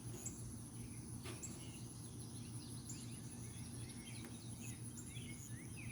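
Outdoor summer ambience: insects keep up a steady high-pitched drone while birds chirp briefly here and there, over a low steady hum.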